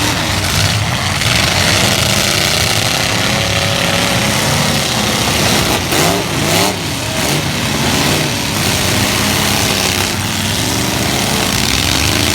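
Several light-truck engines revving and dropping back at once during a demolition derby heat, their pitches rising and falling over each other.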